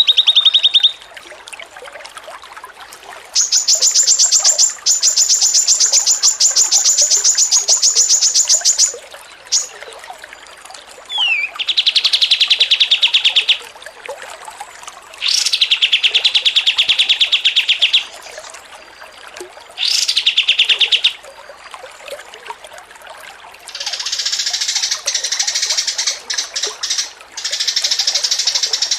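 Caged songbird singing long, rapid, fine trills in repeated bouts of one to five seconds with short pauses between them; some bouts sit higher in pitch than others, and the last one is a denser, scratchier chatter. This is 'ngocor receh', the fast fine-grained trilling played as masteran to teach other songbirds.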